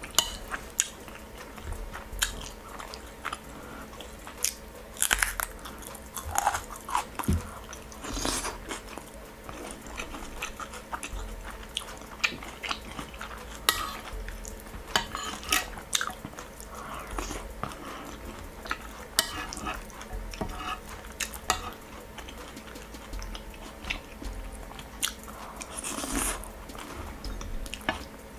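Close-up eating sounds: mouth chewing and smacking on chicken stew and rice, with short sharp clicks of a metal spoon against the plate here and there.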